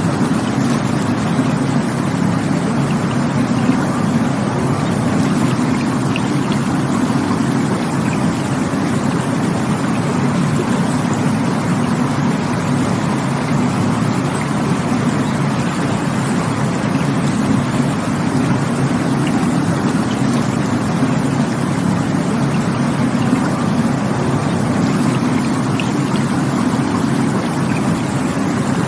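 Rushing water from a stream or waterfall: a steady, unbroken roar.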